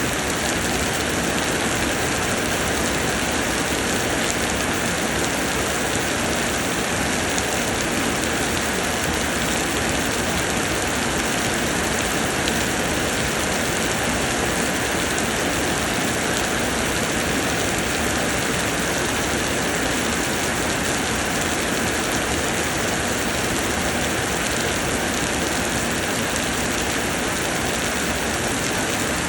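Steady heavy summer rain pouring down, an even unbroken hiss with no letup.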